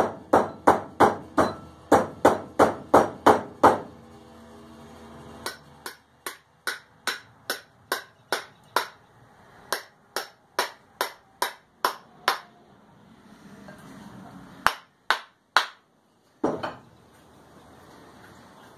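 Hammer blows with a metallic ring, in steady runs of two to three a second with short pauses, then three slower blows near the end: a punch head being seated on its wooden handle.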